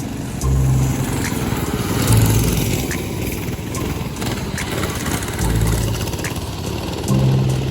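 Small single-cylinder mini bike engines running as the bikes race around a dirt track, their sound swelling and fading as they pass.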